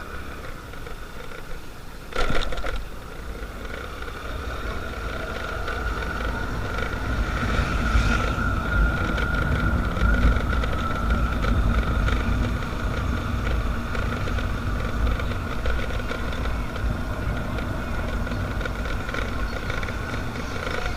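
Motorcycle riding along, its engine and wind rumbling on the microphone, with a steady high tone over the top; the level builds for a few seconds as the bike picks up speed. A sharp thump comes about two seconds in.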